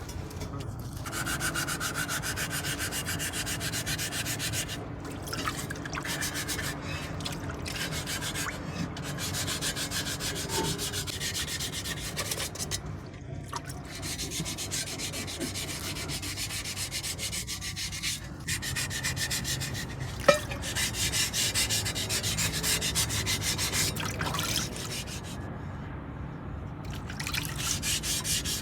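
Sanding the curb-rashed edge of an alloy wheel rim: a fast, even rasping of abrasive on metal that pauses briefly a few times.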